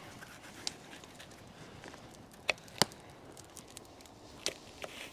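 Knife slicing through a pepper: a handful of sharp knocks of the blade, the loudest two close together near the middle, with fainter ticks between.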